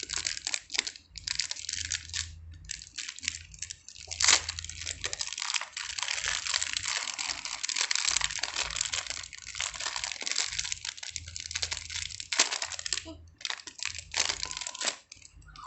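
Packaging being handled, crinkling and rustling, with many small clicks and taps.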